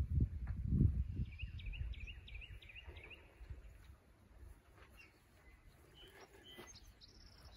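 A small bird singing a quick run of about eight repeated high chirps, with a few fainter chirps later. Low thumps and rustling come at the start.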